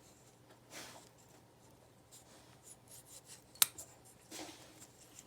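Small handling sounds of test leads being worked onto a removed circuit-board relay: soft scraping twice, and one sharp click about three and a half seconds in.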